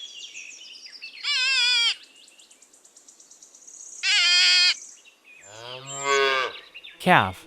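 Two identical short, high, wavering cries about three seconds apart, then a calf mooing once, low and drawn out, from about five seconds in.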